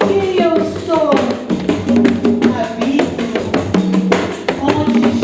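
Live Brazilian music: a group of pandeiros (frame drums) playing a fast, dense rhythm under a melody that slides between notes.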